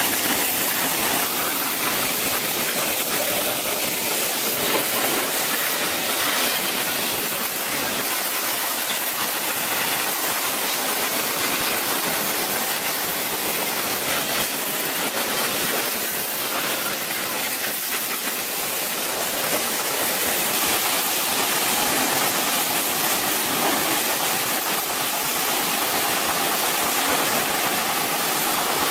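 Steady, loud hissing machine noise with no clear rhythm or tone, holding at an even level throughout.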